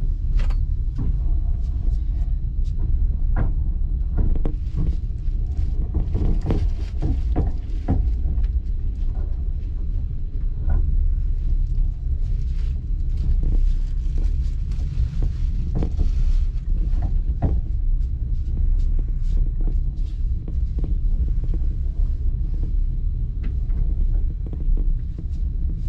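Moving passenger train heard from inside the carriage: a steady low rumble of the ride, with frequent irregular clicks and knocks from the wheels running over the track.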